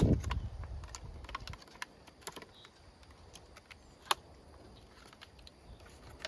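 Scattered small metallic clicks and taps, one louder about four seconds in: hydraulic hose fittings being handled and tried on a hose end.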